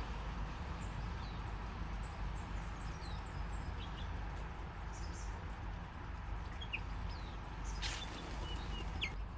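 Small birds chirping in short, scattered calls over a steady low rumble, with a sharp click about eight seconds in.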